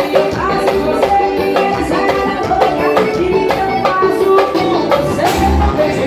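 Band music with a steady drum beat and melodic instrumental lines.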